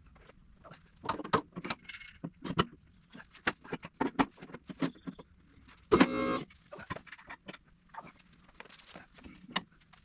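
Scattered metal clanks and clinks of hands-on shop work, with one louder, ringing metallic clank about six seconds in.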